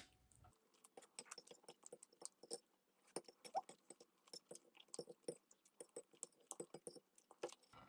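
A person chewing a mouthful of spaghetti close to the microphone: a faint, irregular run of short wet clicks and smacks.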